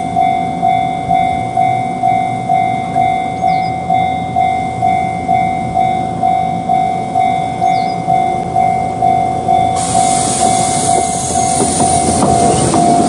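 Railway level-crossing warning bell ringing in a steady ding-ding rhythm, about two strokes a second. From about ten seconds in, a passing train's running noise rises and grows louder under the bell.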